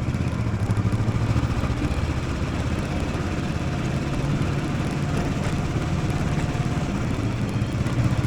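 Motorcycle engine running steadily, with a constant low hum and no clear changes in speed.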